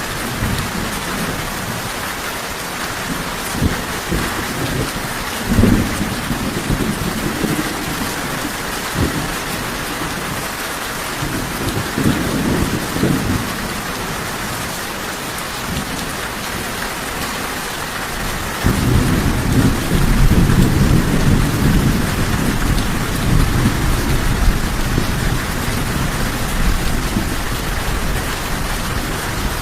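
Steady rain falling, with thunder rumbling: brief low rumbles about six and twelve seconds in, then a longer, louder rolling rumble from about two thirds of the way through.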